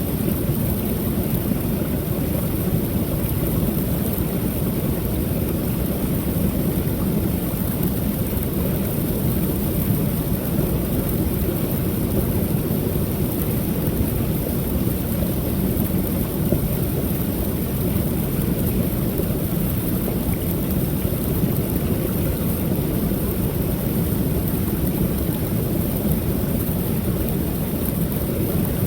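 Creek waterfall pouring steadily: a constant, low rush of falling water with no breaks.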